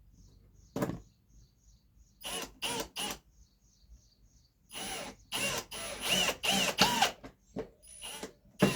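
Power drill driving pocket hole screws into wood in short trigger bursts, the motor's whine rising and falling in pitch with each pulse. Three short bursts come about two to three seconds in, then a quicker run of bursts from about five seconds in.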